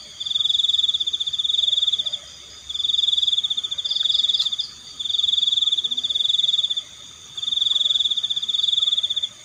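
Night-time chorus of crickets and frogs, led by one loud high-pitched trill that comes in four bouts of about two seconds, with short pauses between them.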